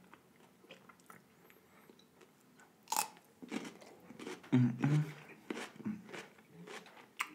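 A crunchy bite into a sauce-dipped cucumber about three seconds in, after a quiet start, followed by wet, clicking chewing close to the microphone.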